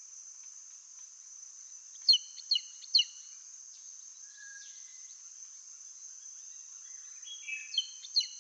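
A series of short, sharp downslurred whistles, three in quick succession about two seconds in and another run near the end, typical of the Andaman serpent eagle's call of 4–5 short chirp-like whistles. A steady high-pitched insect drone runs underneath.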